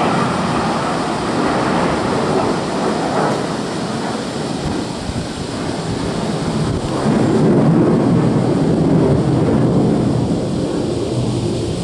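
Loud roar of military fighter jet engines: a steady rumble that grows louder about seven seconds in.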